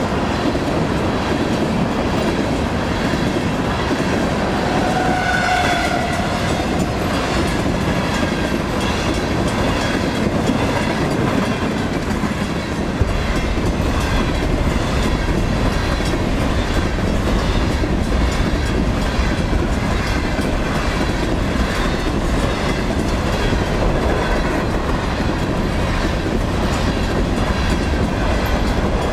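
A BNSF freight train of empty coal hopper cars rolling past close by: a steady rumble and clatter of wheels on rail. The low rumble deepens about halfway through.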